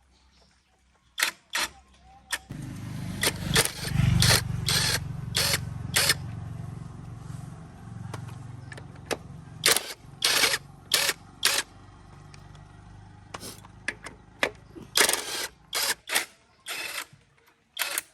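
An engine starts about two and a half seconds in and runs steadily, loudest at first, then easing off and stopping near the end. Sharp knocks sound again and again over it.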